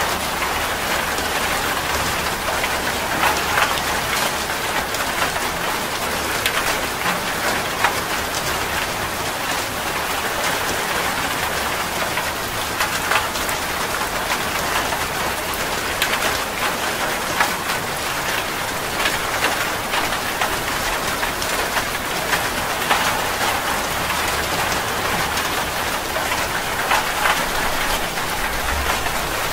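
Steady heavy rain falling on a surface, a constant hiss dotted with many individual drop impacts heard as scattered ticks.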